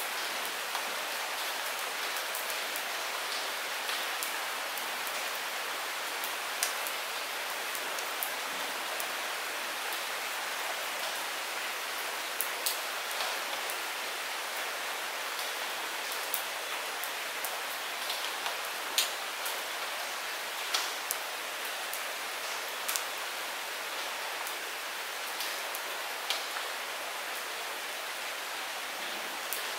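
Steady light rain hissing, with scattered sharp drips striking close by, one louder drip a little past halfway.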